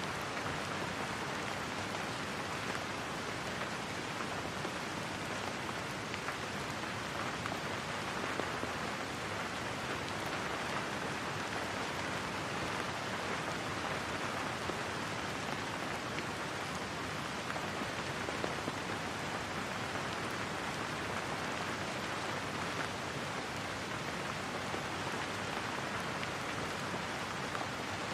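Steady rain falling, an even hiss of many small drops pattering on a surface.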